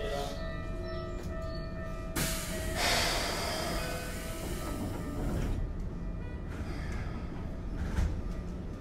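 Interior sound of a Keikyu 1500 series commuter train with field-chopper control: a steady low rumble with faint fixed tones, a loud rushing noise about two seconds in that lasts a few seconds, and a single knock near the end.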